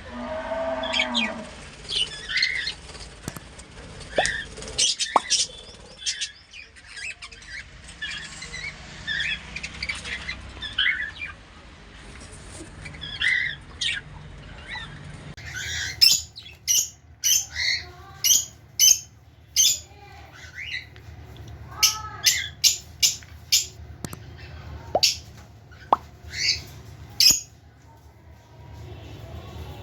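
Budgerigars chirping and chattering. About halfway through, the background changes and a series of loud, sharp, short chirps follows, several in quick succession.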